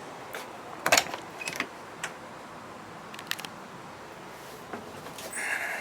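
A few short, sharp clicks and knocks, the loudest about a second in, over a faint steady hiss, with a brief higher-pitched rasp near the end.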